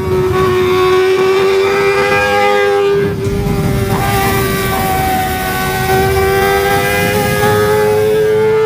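Kawasaki ZX-25R's 250 cc inline-four held at high revs through a Lone Rider aftermarket exhaust: a high, steady wail that dips slightly, then climbs gradually towards the end.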